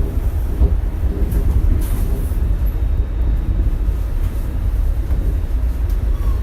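Shonan Monorail suspended-monorail car running along the line, heard from inside the cabin: a steady, loud low rumble from the rubber-tyred running gear in the overhead beam.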